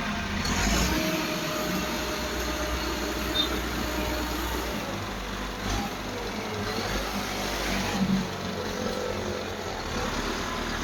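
Massey Ferguson 260 tractor's diesel engine running, a steady low rumble with road noise and a few brief louder knocks and rattles.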